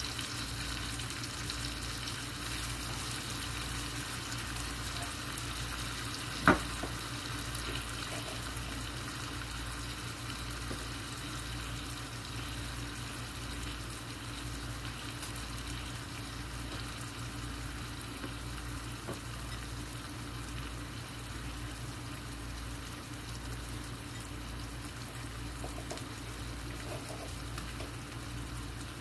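Bone-in chicken thighs frying in coconut oil in a stainless skillet, a steady sizzle over a low hum. A single sharp click comes about six and a half seconds in.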